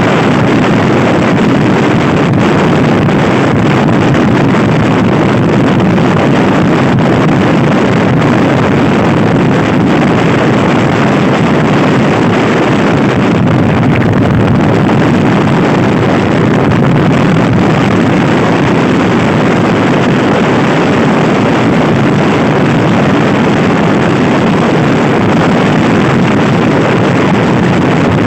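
Loud, steady wind buffeting on the microphone of a camera carried on a fast-moving scooter, the rush of air drowning out the engine.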